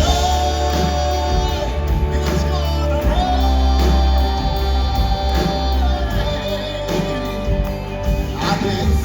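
Live gospel band playing with singing over it, holding long notes over a heavy bass.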